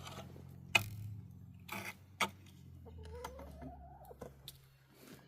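A few sharp knocks and clatters from a bucket and gear being handled, then a hen's single drawn-out call rising in pitch about three seconds in.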